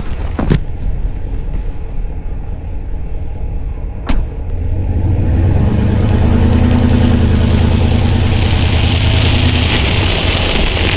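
Ram 1500 pickup's engine pulling under load on snow, its hum growing stronger about halfway through as it climbs, with a sharp click about four seconds in and a hiss that builds toward the end.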